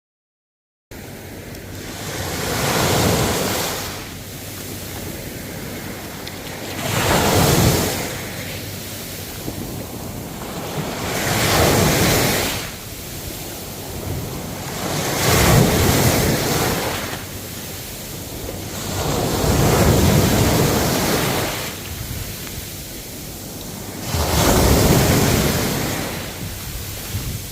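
Ocean waves breaking and washing in, a surge of surf about every four to five seconds, six in all. The audio cuts out completely for the first second.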